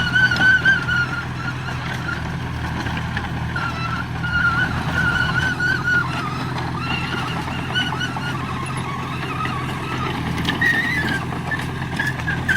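Heavy earthmoving machine running with a steady low engine drone, over which a high squeal wavers in pitch and comes and goes.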